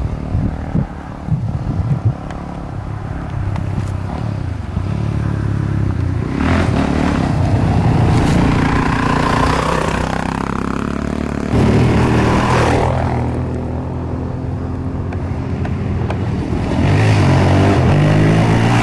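Dirt bike engine running, picking up revs three times.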